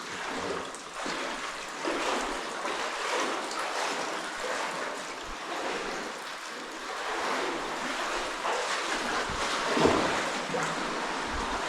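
Cave stream water running, with irregular splashes through it and a louder splash about ten seconds in.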